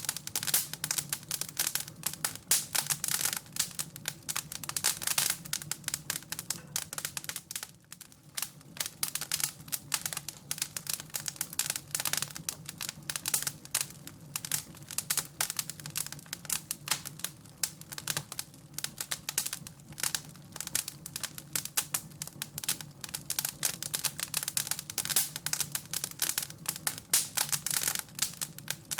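Wood fire crackling and popping, with dense irregular crackles over a low steady hum.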